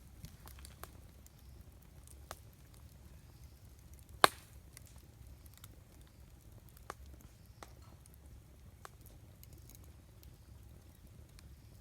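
Wood campfire crackling, with scattered small snaps and one loud, sharp pop about four seconds in, over a faint low rumble.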